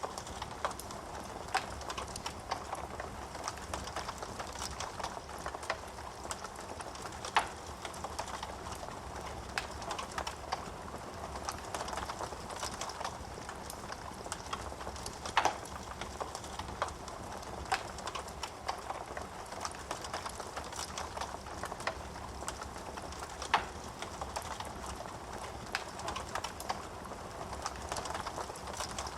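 Wood fire burning in a fireplace, crackling steadily with many small snaps and a few louder pops.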